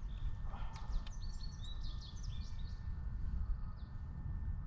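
Small birds chirping: a quick run of short, high chirps repeated again and again from about a second in, over a low steady rumble.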